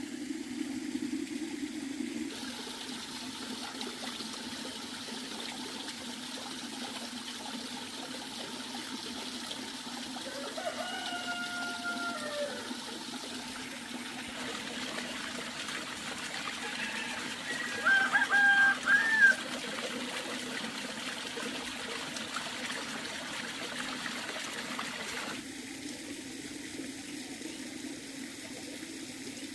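Water running steadily, with chickens calling over it: a call about ten seconds in and a louder burst of calls a little past the halfway mark.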